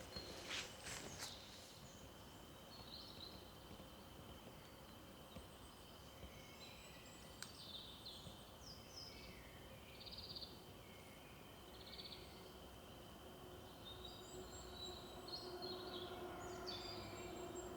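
Faint birdsong in a quiet forest: scattered short chirps and trills from small birds, with a steady thin high tone underneath. A few footsteps on the path sound in the first second, and a low distant hum grows in near the end.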